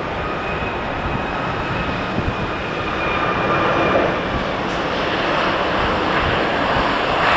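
Airliner engines running, a steady whine over a loud rushing noise, growing louder about three seconds in.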